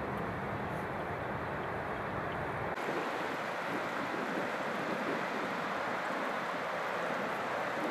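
Floodwater rushing steadily through a breached river levee, with low wind rumble on the microphone that stops abruptly about three seconds in.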